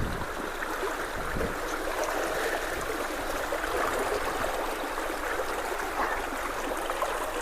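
Creek water rushing steadily past a culvert, a continuous splashing flow.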